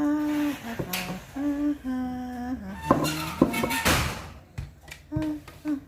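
A woman humming a tune to herself, holding short notes that step up and down in pitch, with a few sharp knocks of things being handled in between.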